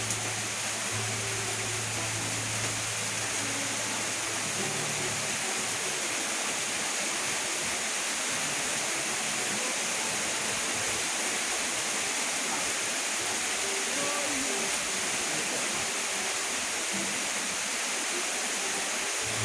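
Steady rain falling, an even hiss without a break. A low hum runs beneath it for the first five seconds or so.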